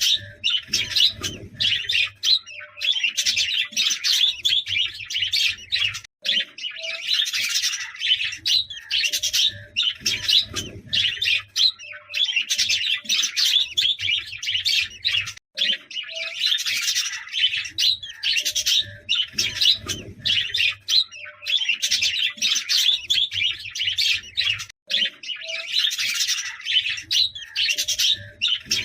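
Budgerigars chirping and warbling continuously, many birds chattering at once.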